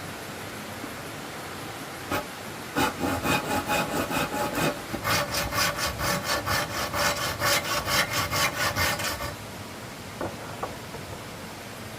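Hand saw cutting wood in quick back-and-forth strokes, about three a second, starting about three seconds in with a brief pause near the middle and stopping near the end, over a steady background hiss.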